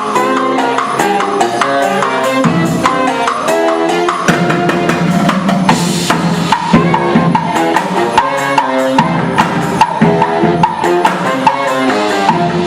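A live band playing: melodic instruments over a steady drum and percussion beat.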